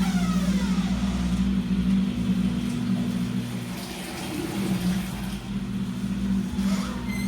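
Washing machine running: a steady low motor hum, with a whine that falls in pitch and fades in the first second as the drum slows.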